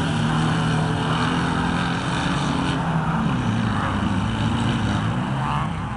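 Air-cooled VW Beetle flat-four engine of a Class 11 off-road race car running, its pitch holding steady for about two seconds and then rising and falling as the throttle changes.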